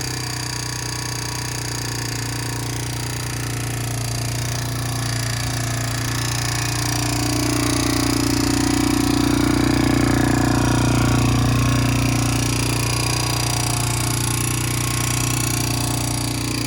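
The 1991 Honda TRX250X ATV's single-cylinder four-stroke engine running steadily, the test run after its engine rebuild. It grows louder for a few seconds around the middle, then eases back.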